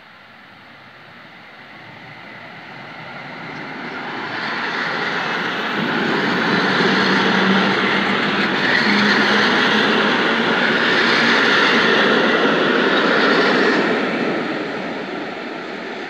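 EN71 electric multiple unit running past close along the platform. The noise of its wheels and motors builds over about six seconds, holds loud, then fades near the end as it moves away.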